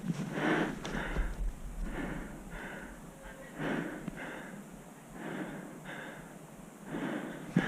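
A person breathing hard: paired in-and-out breaths about every second and a half.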